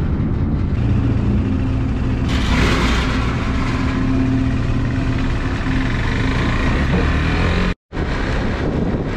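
KTM 390 Adventure's single-cylinder engine running as the motorcycle pulls away, with a rush of wind and road noise rising from about two seconds in. The sound cuts out for a moment near the end, then engine and wind noise carry on at road speed.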